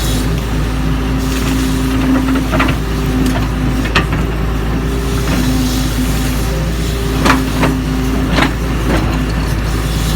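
Doosan DX140 excavator's diesel engine running steadily under work, with a handful of sharp knocks and clanks scattered through, the loudest about two-thirds of the way in.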